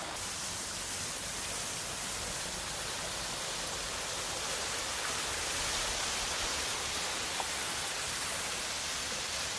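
Steady rush of a small waterfall and stream, an even noise that holds at the same level throughout.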